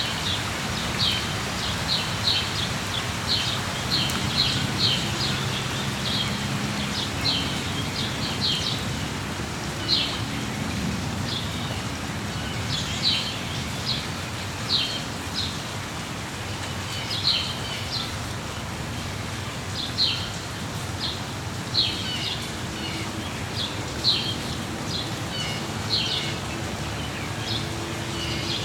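Birds chirping over steady rain: short, sharp chirps come in quick runs at first, then every second or two.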